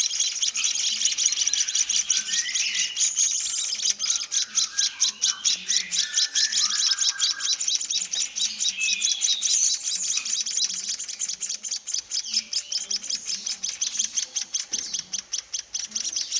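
Several baby birds giving rapid, continuous high-pitched begging chirps, the food-begging calls of hand-reared chicks at feeding time.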